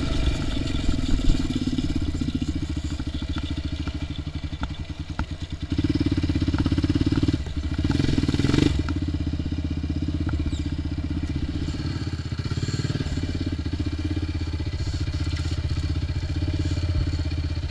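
ATV engine running steadily while being ridden. It gets louder about six seconds in and again briefly around eight seconds, over scattered small clicks and knocks.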